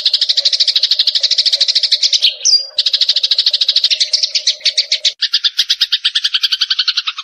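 Eurasian tree sparrows chattering in a fast, continuous run of high chirps, played as a bird-trapping lure call. A brief rising whistle cuts in about two and a half seconds in, the chatter changes character about five seconds in, and it cuts off abruptly at the end.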